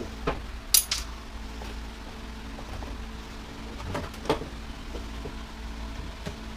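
Metal parts and tools clinking and clanking as an appliance is taken apart by hand: two sharp clanks about a second in, another cluster about four seconds in, and a few light ticks, over a steady low hum.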